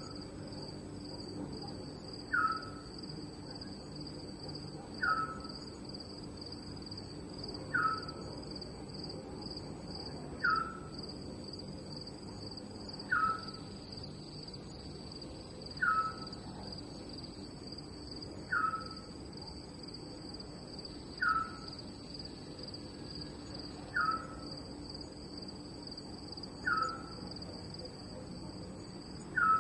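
Night ambience of crickets chirping steadily in a fast pulsing trill. Over it, a short downward-sliding call repeats very regularly about every two and a half to three seconds, louder than the crickets.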